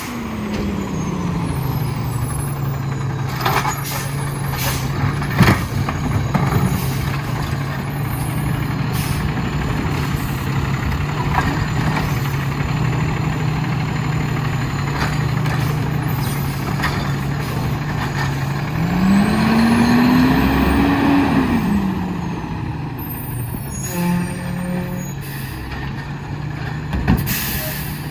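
Diesel engine of an Autocar WXLL garbage truck with a McNeilus Autoreach body running near idle. It settles down from a higher speed at the start, then revs up and back down about two-thirds of the way through. Several short sharp sounds, including air-brake hisses, break in.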